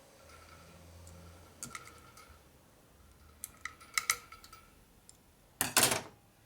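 Small metallic clicks from snap-ring pliers and a fork-seal retaining clip being worked into its groove in a motorcycle fork slider. A few light clicks come first, then a louder, longer metal clatter near the end.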